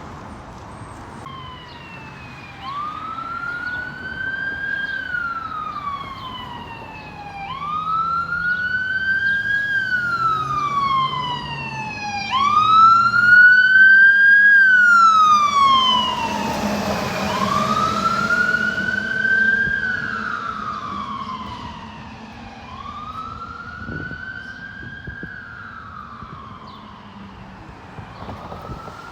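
Fire truck's electronic siren on a slow wail, rising and falling about every five seconds. It grows louder as the truck approaches, peaks with a rush of engine and road noise as it passes, then fades away.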